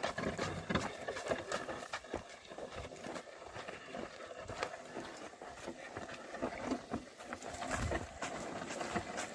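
A pair of oxen pulling a plough through a field: irregular soft knocks and scuffs of hooves and soil.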